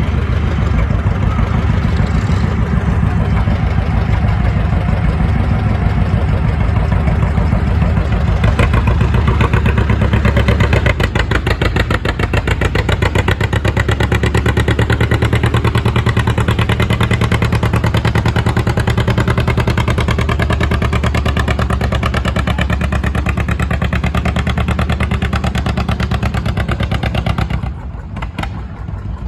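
A pulling tractor's engine runs hard under load with a dense, steady firing rhythm, then drops off sharply about two seconds before the end.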